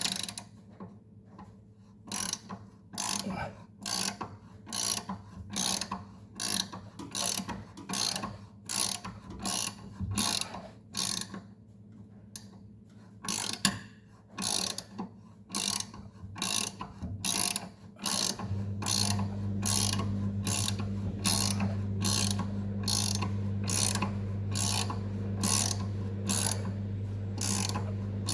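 Hand ratchet wrench clicking in short repeated strokes, about two a second, as a blade bolt is worked into a mower deck spindle. A steady low hum starts about two thirds of the way in.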